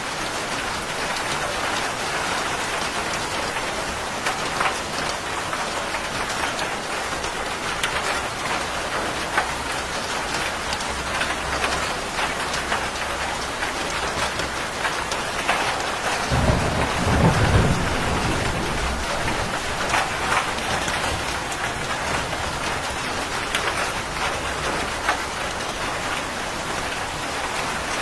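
Steady heavy rain pattering on a surface, with scattered louder drops. A low rumble of thunder builds from about 16 seconds in, peaks briefly and fades over about three seconds.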